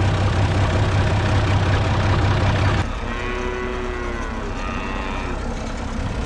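Tractor engine running loud and steady under load while clearing snow. Just under three seconds in, it drops suddenly to a quieter, lower-throttle run with a steady whine.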